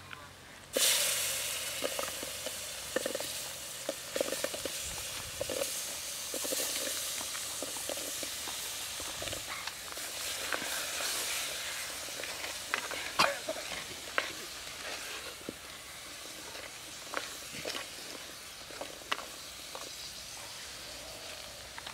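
Seeds tipped into hot oil in a clay pot: a sudden loud sizzle about a second in that slowly dies down. Throughout, a wooden-handled ladle stirs the seeds, with scattered clicks and knocks against the pot.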